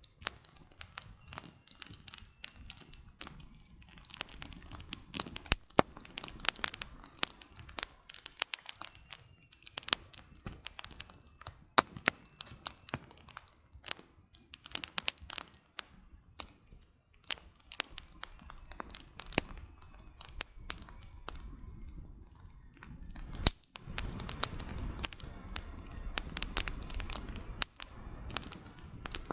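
Wood campfire crackling, with rapid irregular pops and snaps from the burning firewood. A low rumble from the fire swells near the end.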